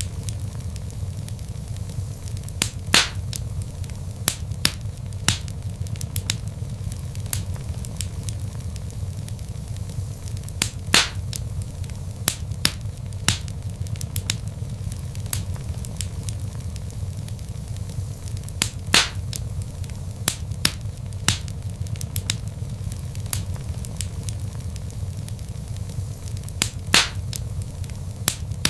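Log fire crackling: a steady low rumble of flames under frequent sharp crackles and snaps, with a louder pop about every eight seconds.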